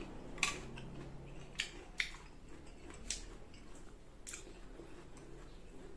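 Close-miked chewing of crisp unripe green mango, with about five sharp crunches spread through the chewing.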